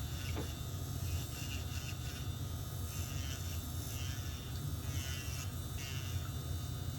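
Electric nail drill buzzing steadily, with short repeated grinding rasps as the bit works over the thickened toenail.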